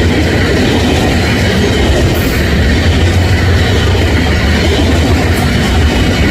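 Union Pacific manifest freight train passing close by: a loud, steady rumble of the train rolling on the rails.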